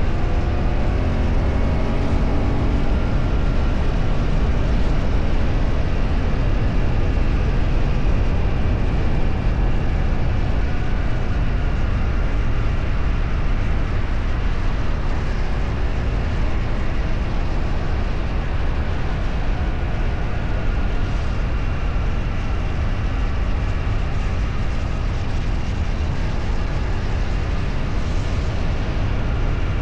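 A vehicle on the move: a steady, heavy low rumble of wind and road noise with the engine underneath, its pitch climbing in the first few seconds as it speeds up.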